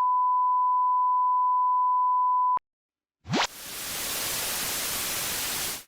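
Electronic intro sound effect: a steady pure test-tone beep for about two and a half seconds, then after a brief silence a quick rising sweep that turns into a steady hiss of white-noise static, which cuts off suddenly near the end.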